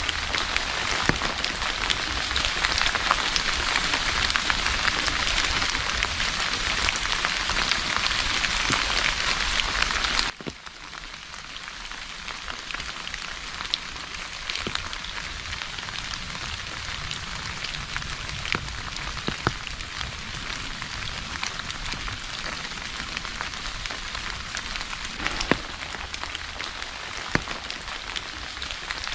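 Steady rain falling, a dense hiss with scattered individual drop ticks. About ten seconds in, it drops suddenly to a quieter, lighter rain that carries on to the end.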